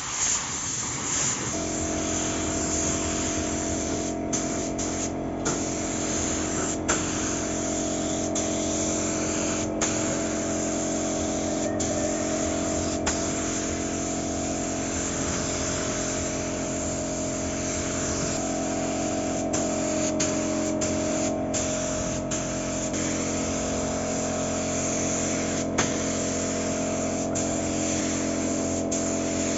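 A motor hums steadily under a continuous hiss of spraying air, as from a compressor-fed spray gun at work. The hiss dips briefly a few times.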